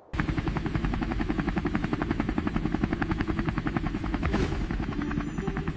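Helicopter rotor chopping in a fast, steady beat with a low engine hum. It cuts in suddenly right at the start.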